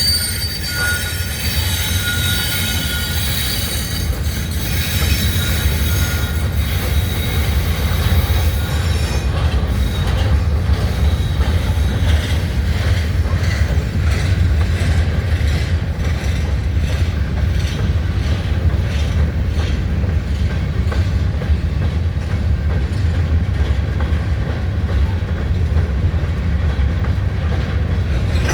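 Norfolk Southern rock train's freight cars rolling past: wheels squeal in high steady tones for about the first nine seconds, then fade. A steady low rumble remains, with regular clicks of wheels over the rail joints.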